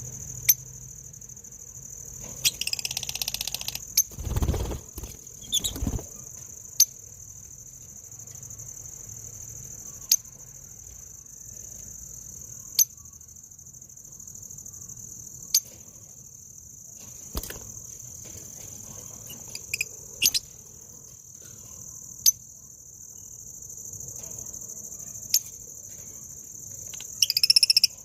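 Steady, high-pitched insect drone, with short sharp chirps every two to three seconds. A brief noisy flurry comes about two and a half seconds in and another near the end, and a low rumble around four to six seconds.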